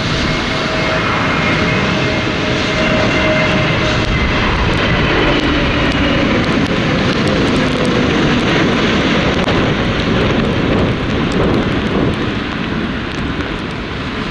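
Jet airliner passing close by, its engines running loud with a whine that slides down in pitch as it goes past.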